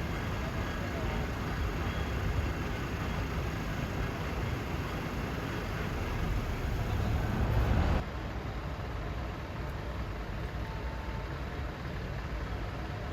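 Steady street noise with vehicle engines running, a low rumble that swells slightly before an abrupt cut about eight seconds in to quieter traffic noise.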